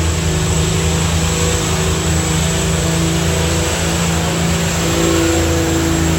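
Diesel pulling truck's engine running hard at high, fairly steady revs, as in a full-throttle run down the track.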